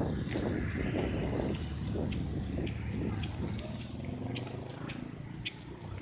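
Voices talking over the steady low hum of vehicle engines in street traffic, with a few scattered clicks.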